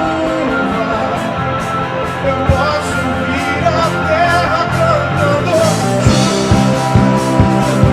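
A live worship band playing, with sustained instruments throughout. A steady drum beat comes in more strongly about six seconds in.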